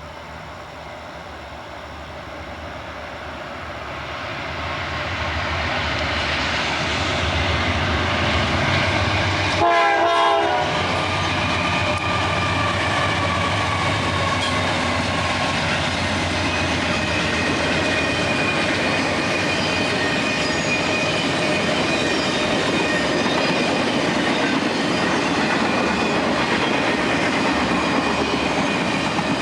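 A train approaching and growing louder over the first six seconds. About ten seconds in there is a brief horn sound. The train then passes steadily, its wheels clicking over the rail joints, with a thin high wheel squeal.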